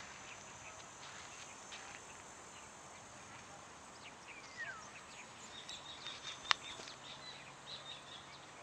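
Outdoor background hiss with birds chirping: a single falling whistle about halfway, then a run of short, high chirps. One sharp click about two-thirds of the way through is the loudest sound.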